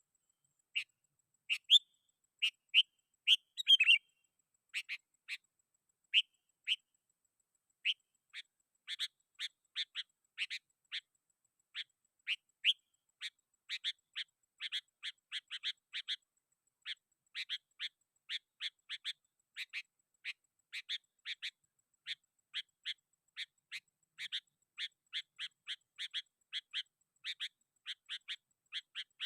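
Sooty-headed bulbul (kutilang) calling vigorously, the rival-challenging call used as a lure for wild bulbuls. It gives short, sharp chirps, a few louder ones in the first four seconds, then a fast, steady run of quieter chirps about two or three a second.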